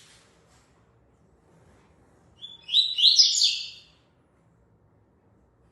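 A coleiro (Sporophila seedeater) sings one short, loud phrase of a few quick high notes about two and a half seconds in.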